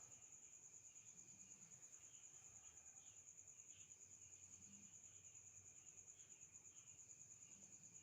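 Faint cricket chirping: one steady high note that pulses evenly, about six times a second, with fainter scattered chirps lower underneath.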